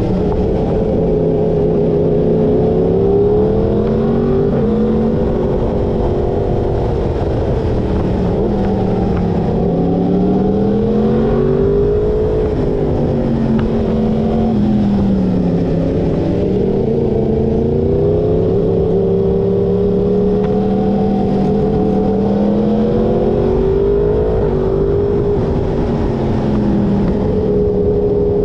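Yamaha inline-four sport motorcycle engine under way, its pitch repeatedly rising on acceleration and falling off on deceleration as the bike works through a string of bends.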